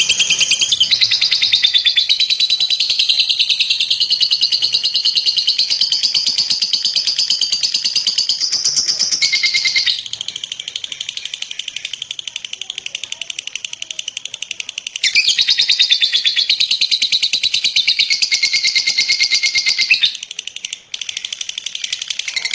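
Lovebird singing its long 'ngekek' chatter: a fast, unbroken trill of rapid high-pitched notes. It is loud for about ten seconds, softer for about five, loud again for about five, then eases off.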